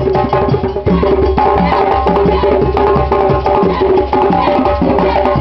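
Afro percussion music: drums and a wood-block-like click in a fast, steady rhythm, with some held pitched notes underneath, accompanying a Balanta dance.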